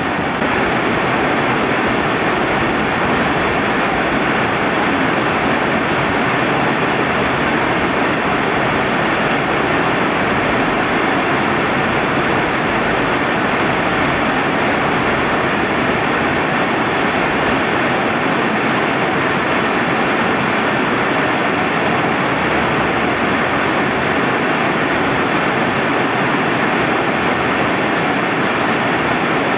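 Rain falling by a rushing river, heard as a dense, even hiss that holds steady throughout.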